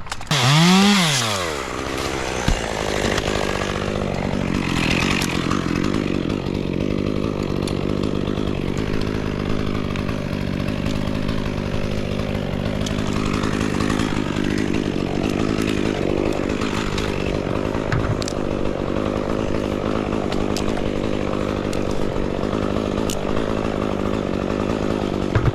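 Two-stroke chainsaw revved up and back down about a second in, then left idling steadily.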